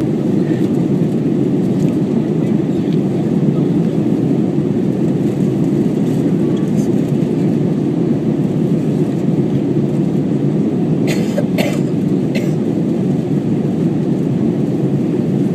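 Airbus A321 airliner in flight, its engines and airflow making a steady, loud, low rush inside the cabin, with a few brief clicks about eleven to twelve seconds in.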